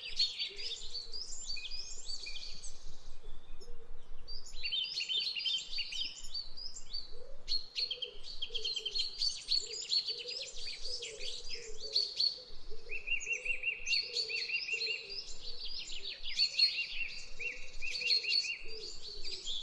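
A flock of small parrots chirping and chattering, many short calls overlapping without pause, with a fast repeated trill about thirteen seconds in.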